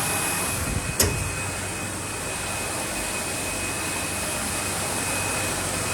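Paper lid making machine running: a steady mechanical whir with a low hum and a thin, high, steady whine, broken by one sharp click about a second in.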